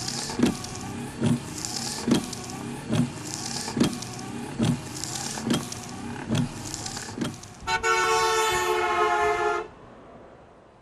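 A run of regular thuds, a little more than one a second, over a steady hiss, then a car horn sounding one steady two-note blast for about two seconds near the end.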